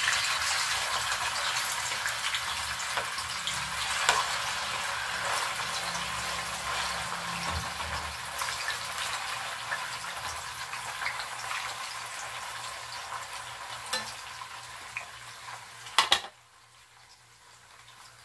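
Cubed tofu sizzling in hot cooking oil in a frying pan, just added, the sizzle slowly fading. There are occasional clicks and knocks, with two sharp ones near the end, after which the sound drops suddenly to a faint hiss.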